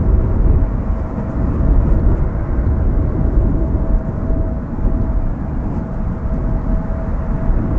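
Airliner jet engines running, a steady low rumble with a thin, steady whine above it, mixed with wind buffeting the microphone.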